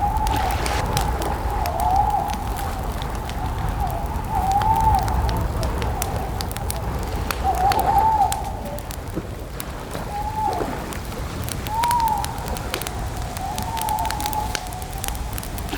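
Campfire crackling with frequent sharp pops over a low rumble. A bird's wavering, cooing call sounds again every couple of seconds over it.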